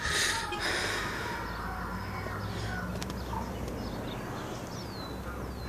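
Birds calling, with a few quick, high, falling chirps near the end, over a low steady rumble. A brief loud rush of noise comes right at the start.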